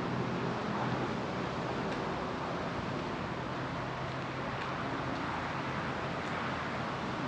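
Steady road traffic noise: an even hiss with a faint low hum underneath.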